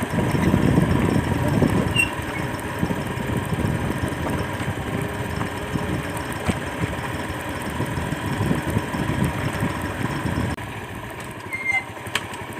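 Motorcycle engine idling steadily; the sound drops off suddenly about ten and a half seconds in.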